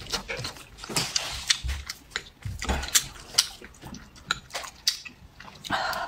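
Close-miked chewing of boiled dumplings: wet mouth smacks and sharp clicks coming irregularly, several a second.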